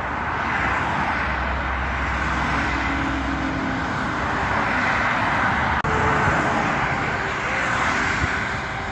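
Road traffic: trucks and cars driving past with steady tyre and engine noise, a low engine drone swelling about a second in. A brief dropout about six seconds in.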